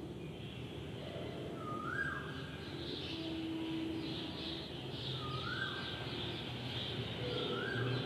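Faint bird calls: a short rising whistle repeated three times, over a faint high chirping chatter.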